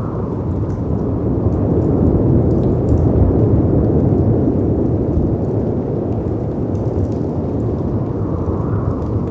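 Storm ambience of wind and surf: a deep, steady rumble that swells over a couple of seconds and slowly eases off, with faint fireplace crackles ticking through it.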